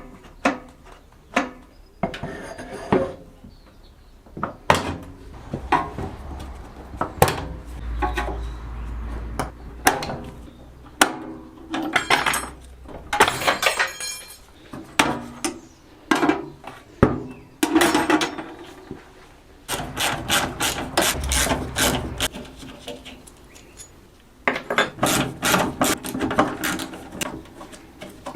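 Hand tools at work on small parts: a long series of separate sharp clicks and knocks, with fast strings of rapid strokes about two-thirds of the way through and again near the end.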